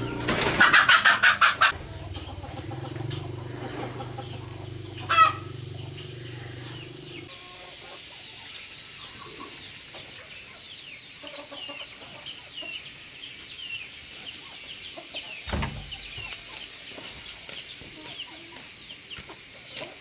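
Chickens calling: a loud call pulsing about seven times in the first two seconds, another short loud call about five seconds in, then many faint, high, falling peeps for most of the rest.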